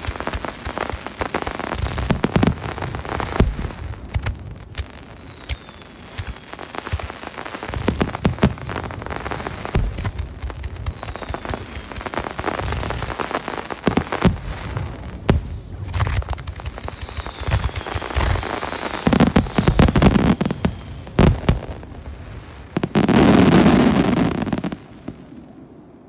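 Fireworks display: repeated shell bursts and crackling, with several whistles falling in pitch. Near the end comes a dense, loud stretch of crackle that stops suddenly.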